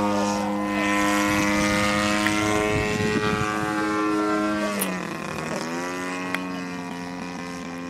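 50cc two-stroke gasoline engine of a radio-controlled Edge 540T model airplane running with a steady propeller drone. Its pitch drops about five seconds in, then holds lower, and the sound slowly fades.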